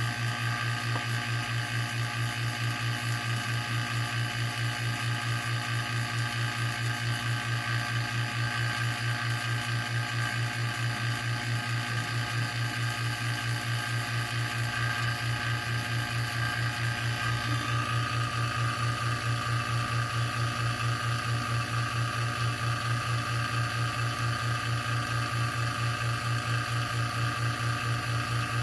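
Electric A/C vacuum pump running steadily, a low hum with a fast even pulse, on a car's air-conditioning system. About two-thirds of the way in a higher tone joins the hum.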